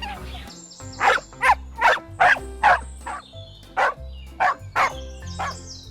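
A series of about eight short, sharp animal calls, bunched between about one and five seconds in, over background music.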